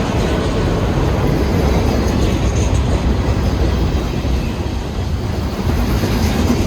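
Union Pacific manifest freight train rolling past with a steady, loud rumble of cars on the rails.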